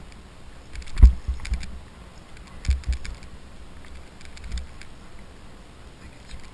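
Scattered knocks and small rattles, with a sharp thump about a second in and a few lighter clunks after it.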